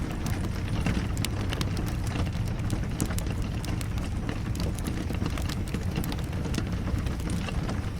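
Fireplace fire crackling with rain falling: a steady low rumble under frequent sharp pops and ticks.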